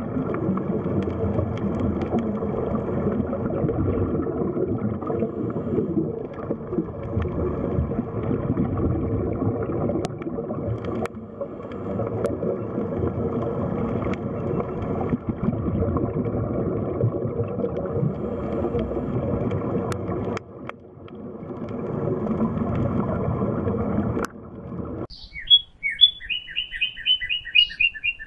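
Underwater ambience of steady rushing, gurgling water with a faint hum, dipping briefly about twenty seconds in. About twenty-five seconds in it cuts to small birds chirping in quick, repeated high notes.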